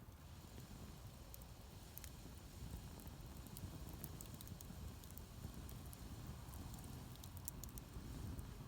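Wood campfire burning, with scattered faint crackles and pops over a low steady rumble.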